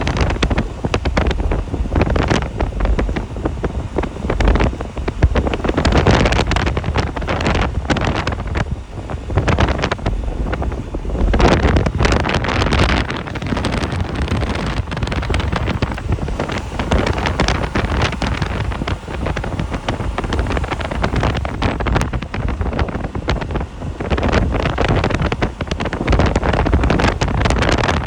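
Wind buffeting the microphone over the low, steady rumble of a vehicle driving.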